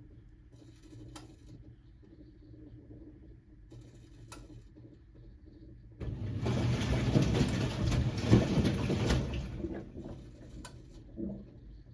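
1978 Siemens WA4600 front-loading washing machine in mid-cycle: a low hum with a couple of faint clicks, then about six seconds in a loud rush of drum and water noise starts suddenly, lasts about four seconds and fades away.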